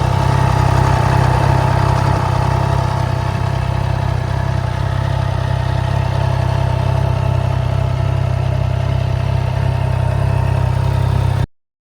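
A motorcycle engine running steadily at an even speed, with no revving. It cuts off abruptly near the end.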